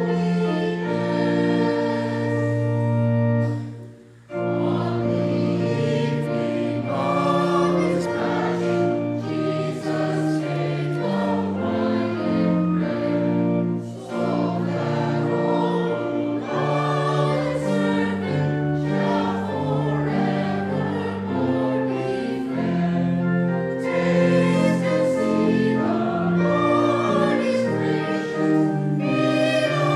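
Congregation singing a hymn together, held notes moving line by line, with a brief pause about four seconds in between phrases.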